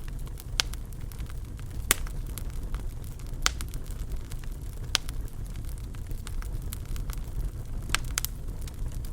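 Fire in a fireplace crackling: sharp pops at irregular intervals of a second or so over a steady low rumble of the flames.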